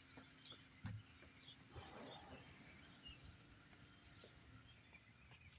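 Near silence: faint outdoor ambience with a few soft knocks, about a second in among them.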